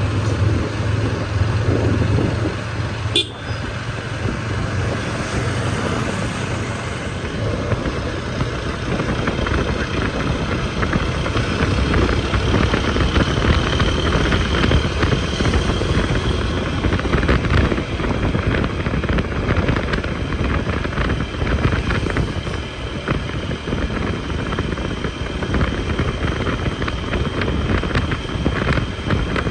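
Single-cylinder TVS Apache RTR 160 4V motorcycle being ridden on a road: its engine runs under way beneath steady, heavy wind noise on the microphone, with traffic horns sounding at times.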